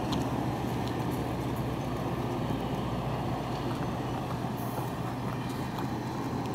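Passenger railcars rolling past on the rails, a steady rumble with a few faint wheel clicks, slowly fading as the tail end of the train goes by.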